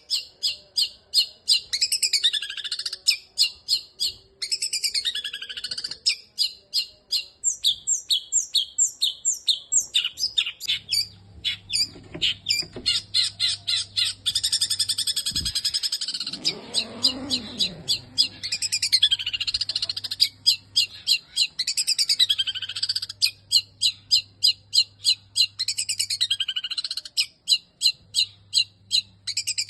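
Long-tailed shrike (cendet) singing a long, fast run of sharp, varied chirps and mimicked calls, in the style of kingfisher and sparrow calls. About halfway through comes a lower call that falls in pitch, then the rapid chirping resumes.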